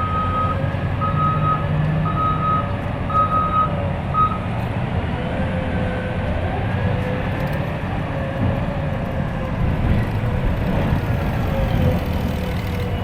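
Reversing alarm on heavy mining machinery beeping at a steady pace, stopping about four seconds in, over the continuous low rumble of the machines working.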